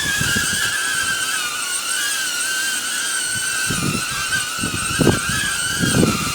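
Quadcopter drone hovering, its propellers giving a steady high whine that wavers slightly in pitch as the motors hold position against gusts. Wind buffets the microphone in low rumbles, dropping away for a couple of seconds and then gusting again from about four seconds in.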